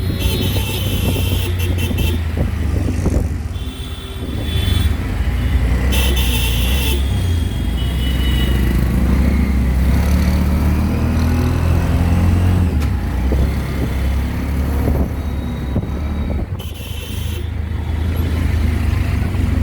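Auto-rickshaw engine running in street traffic, its pitch rising and falling as it speeds up around the middle. Several short shrill sounds cut in over it.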